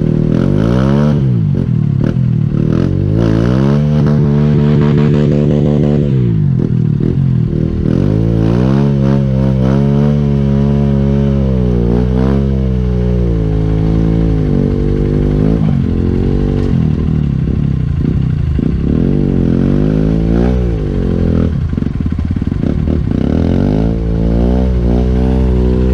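Honda CRF150L's single-cylinder four-stroke engine running, its pitch repeatedly climbing as it revs up and then dropping back, with a sharp fall about six seconds in.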